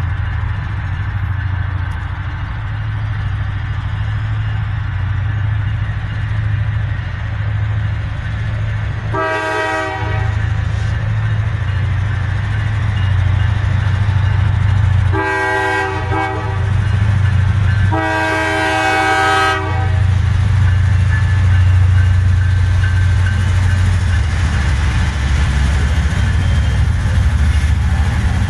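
Nathan K5LA five-chime air horn on a pair of GE Dash 9-44CW diesel locomotives, sounded in three separate blasts, the third the longest, with a fourth starting right at the end. Under the horn, a steady low rumble of the locomotives' diesel engines and the passing train runs throughout.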